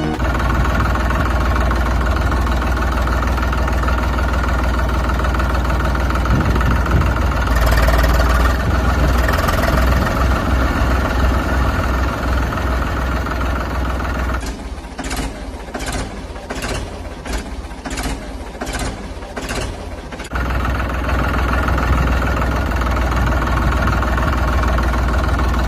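Tractor engine running steadily with a strong low hum. For about six seconds in the middle it changes to an even pulsing, roughly one and a half beats a second, then goes back to the steady running.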